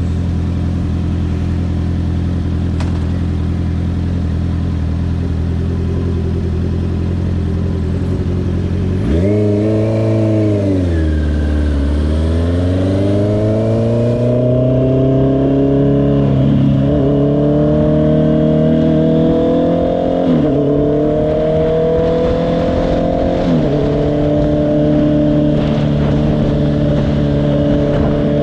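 Honda CBR650R's inline-four engine running steadily at low revs, then about nine seconds in the throttle opens and the bike accelerates through the gears: the pitch rises, drops at each of three upshifts, and settles to a steady cruise near the end.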